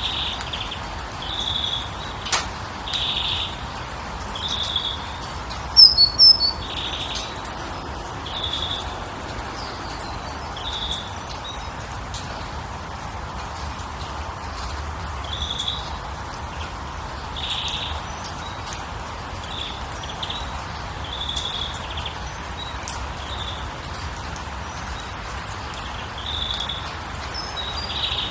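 Wild birds calling, short notes repeating every second or two, with a brief burst of louder, higher chirps about six seconds in, over a steady background hiss.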